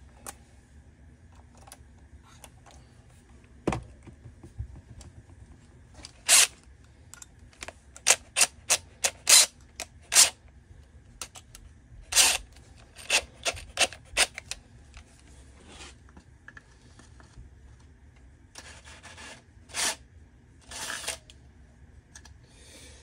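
Hands working the plastic parts of a string trimmer head: a run of sharp clicks and taps, quickest in the middle, then a few short scraping rubs near the end.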